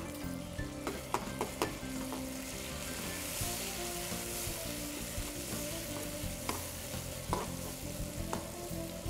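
Chopped onion, garlic and tomato sizzling in oil in a wok while a metal spoon stirs them, with scattered clicks and scrapes of the spoon against the pan.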